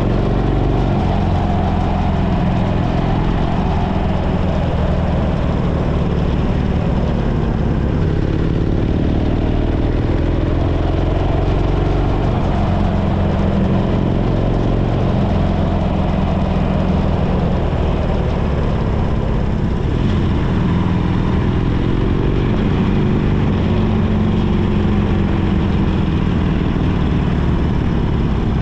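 Harley-Davidson Sportster 1200 Custom's air-cooled V-twin engine running steadily while riding at road speed, its note rising and falling a little twice as the speed changes.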